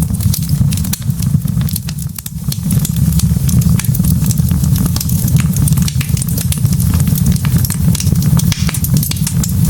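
Burning logs in a fireplace crackling, with many sharp pops over a steady low rumble of the fire.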